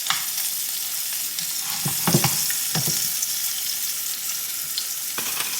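Batter-coated asparagus spears deep-frying in hot oil: a steady high sizzle, with a few light knocks of utensil on pan about two to three seconds in.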